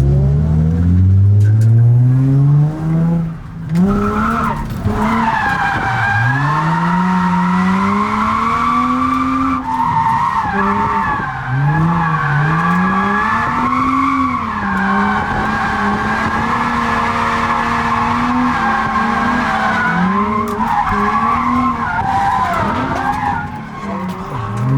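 Infiniti G35's VQ35 3.5-litre V6 revving up hard, then the tyres squealing for a long, unbroken drift while the engine pitch rises and falls with the throttle, heard onboard. Near the end the squeal eases and the engine climbs in pitch again.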